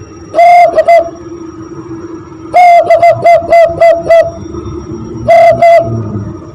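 Hand-whistled imitation of a zebra dove's cooing call, made by blowing into cupped hands: three phrases, each a longer opening note followed by a quick run of short notes at one steady pitch. The middle phrase is the longest, with about seven short notes.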